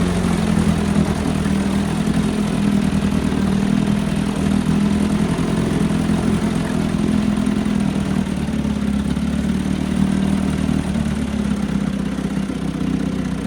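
1948 Mercury KF5 Super Five twin-cylinder two-stroke outboard motor idling steadily just after starting. The once-seized motor runs smoothly at an even idle.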